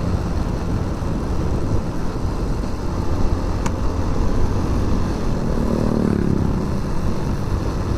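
Motorcycle riding noise: the engine running under a steady rumble of wind and road noise, with an engine note that falls in pitch between about five and six and a half seconds in.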